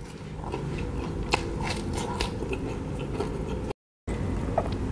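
Close-miked biting and chewing of a slice of durian cheese pizza: soft crunches of the crust and wet mouth clicks come irregularly, and the audio cuts out completely for a moment about three-quarters of the way through.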